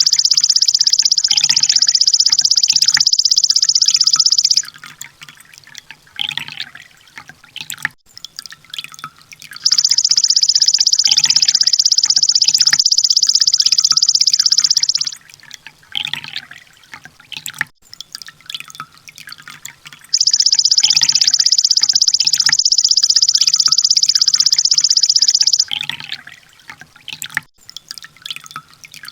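Sunbird (kolibri ninja) song on a loop: a loud, dense, very high rapid trill, the 'tembakan' burst, lasting about five seconds. It comes three times, about every ten seconds, with softer scattered chirps in between.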